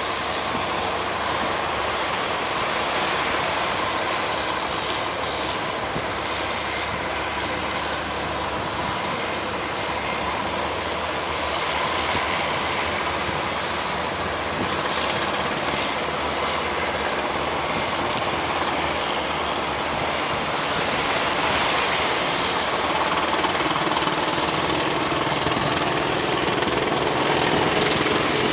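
Big surf breaking in a steady rush of noise, growing louder about twenty seconds in.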